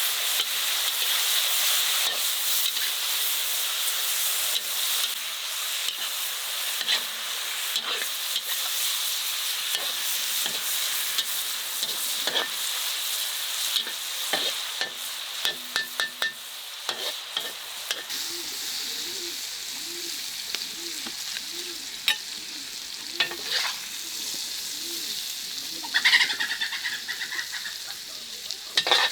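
Food sizzling as it fries in a pan while being stirred, with scattered clicks and scrapes of a utensil against the pan. The sizzle grows quieter about two thirds of the way through.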